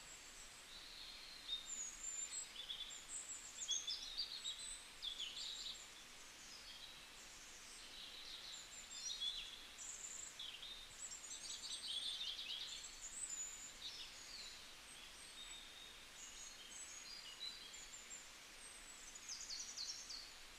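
Faint birdsong: short high chirps and twittering calls that slide in pitch, coming and going with brief quiet gaps.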